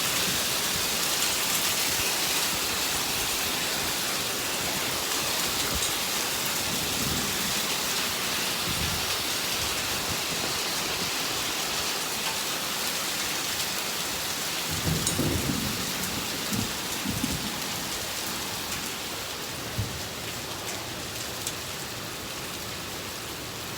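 Hailstorm: hail and rain falling steadily, a dense hiss of stones striking, easing slightly toward the end. A few short low thumps come about two thirds of the way in.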